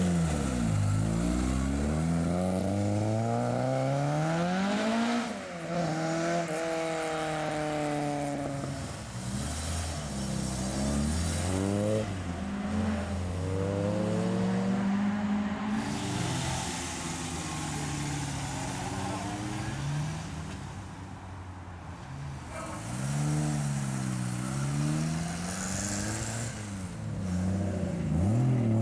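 Classic Ford cars accelerating hard away one after another, their engines revving up and dropping back through the gears several times.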